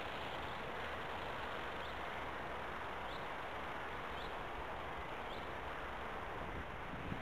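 A steady outdoor hiss, with four faint, short, high, rising chirps from a small bird in the middle, a little over a second apart.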